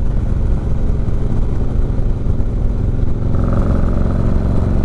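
Harley-Davidson Road King V-twin engine running through an Ultima 2-into-1 exhaust under way, a steady low exhaust note that shifts slightly near the end. The bike is on a stage 1 setup with the new pipe, a Vance & Hines Cage Fighter air filter and a fresh tune.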